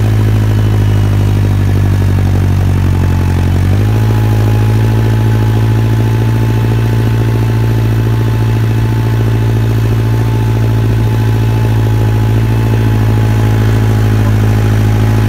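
Massey Ferguson 5430 Dyna-4 tractor's Perkins turbo diesel engine running steadily under the load of about 12 tons of fertilizer. About four seconds in the engine note steps up slightly and a steady turbo whistle comes in and holds.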